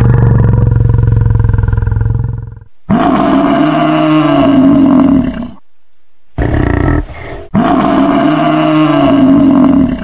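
Water buffalo calling: a low, steady call, then a long call that rises and falls in pitch, a short call, and another long rising-and-falling call, with brief silences between them.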